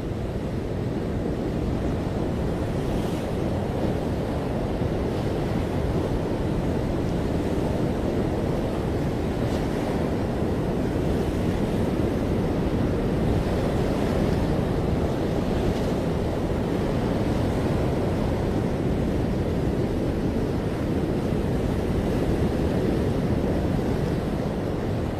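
Ocean surf washing in continuously, a steady low rushing without distinct individual breakers, with wind buffeting the microphone.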